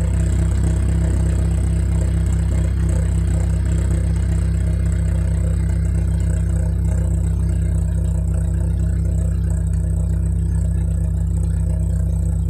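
Exhaust note of a Proton Exora's CPS 1.6-litre four-cylinder engine through a Jasma twin-tip aftermarket exhaust, idling steadily with a deep, even hum.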